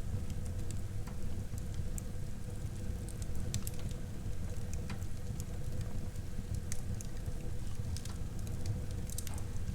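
Wood fire burning in a fireplace: a steady low rumble of the flames with irregular sharp crackles and pops from the burning logs, a small cluster of them about a third of the way in and another near the end.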